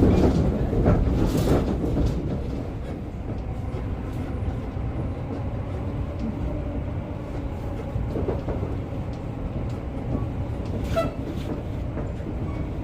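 Class 710 Aventra electric multiple unit running, heard from inside the carriage: a steady low rumble, louder for the first couple of seconds, with a few clicks from the wheels on the track.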